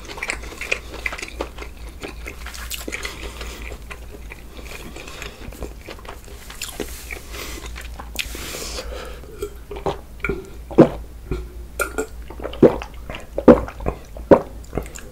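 Close-miked eating: a person chewing a mouthful of food with wet smacking and crunching clicks. From about ten seconds in come five or six louder, short mouth sounds, roughly one a second.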